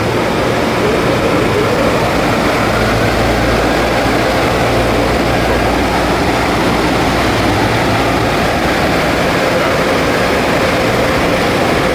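Steady, loud mechanical roar of car wash machinery and vehicles, with a faint rising whine about a second in.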